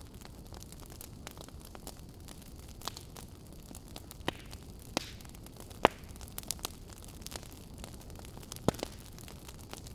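Wood fire burning in a fireplace: a steady low hiss with irregular sharp crackles and pops, the loudest pop near the middle.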